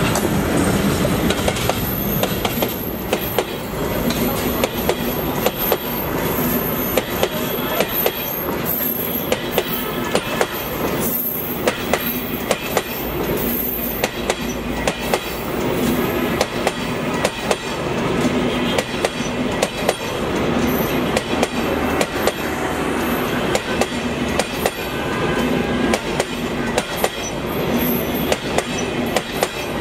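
Passenger carriages of an express train rolling past close by: a steady rumble of wheels on rail, with frequent sharp clicks as the wheels cross rail joints.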